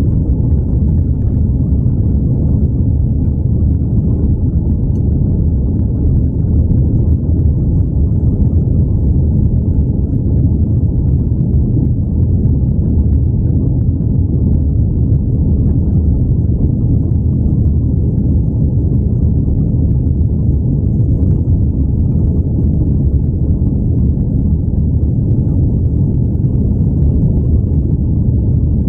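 Airplane taking off, a loud, steady low rumble of engines and rushing air that holds even throughout.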